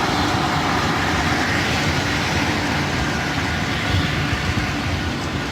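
Steady hiss of heavy rain mixed with the noise of passing highway traffic.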